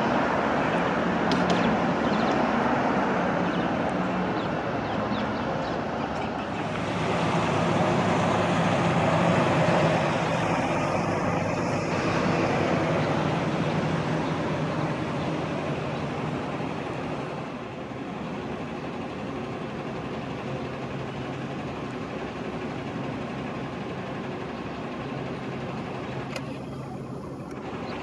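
Road traffic noise: vehicles passing in a steady rumble, loudest in the first half and easing off after about fifteen seconds.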